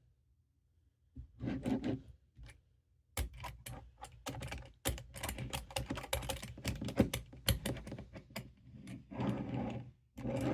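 Rapid, irregular small plastic clicks and taps as an HO-scale model car is handled and worked on the track.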